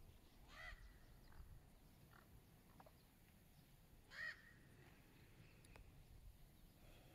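Near silence with two bird calls about three and a half seconds apart, the second louder.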